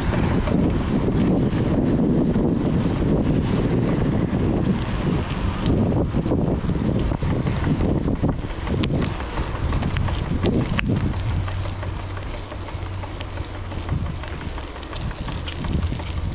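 Wind buffeting the microphone of a camera on a moving bicycle, mixed with road and tyre rumble from the bike and a few small clicks or rattles.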